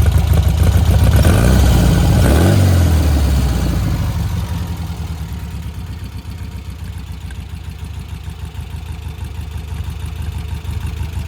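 Air-cooled VW 1800cc flat-four engine running at raised revs. About two to three seconds in the revs drop, and it settles into a quieter, steady idle. The owner judges it to be running well, with loose valve clearance still to be adjusted.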